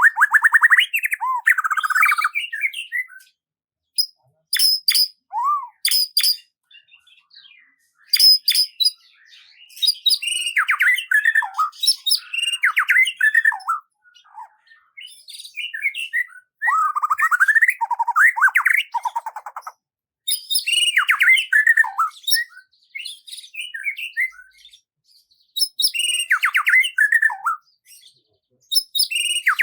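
Songbirds singing in bouts of rapid chirps, trills and falling whistled notes, each lasting a few seconds, with short silent pauses between them.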